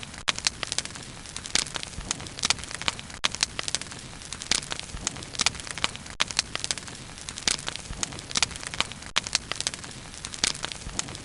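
Bonfire burning, with irregular sharp crackles and pops of burning wood over a steady low hiss and rumble of the flames.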